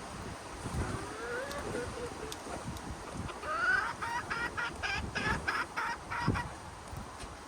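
Chicken calling: a drawn-out rising call, then a quick run of about ten loud clucks, roughly three a second.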